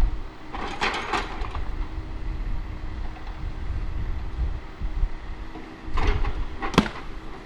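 Diesel engine of a heavy logging machine running steadily, with two short noisy bursts, about a second in and again near six seconds, as the machine works through the mud.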